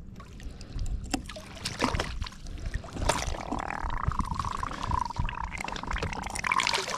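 Water sloshing and scattered knocks and clicks on and around a kayak as a large lake trout is handled aboard. From about halfway on, a faint tone wavers and then holds steady.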